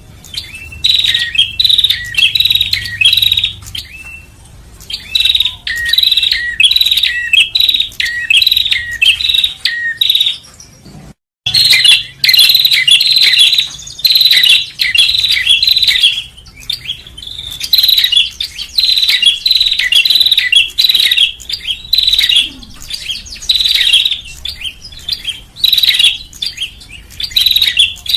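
Prenjak (prinia) lure calls: rapid, repeated chirping phrases in bursts with short pauses. The sound cuts out for a moment about eleven seconds in, then the chirping resumes.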